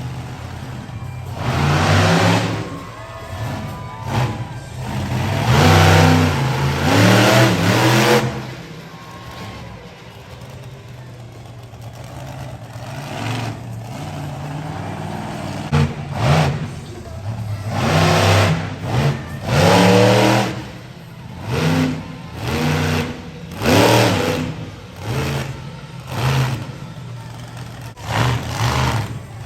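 Monster truck engine revving hard in repeated bursts, its pitch rising and falling with each blip of the throttle. It goes quieter and steadier for several seconds in the middle before the revving picks up again.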